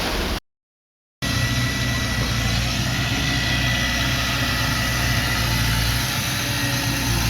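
Heavy-equipment diesel engine running steadily, with a faint high whine above it. The sound cuts out completely for under a second about half a second in, then resumes.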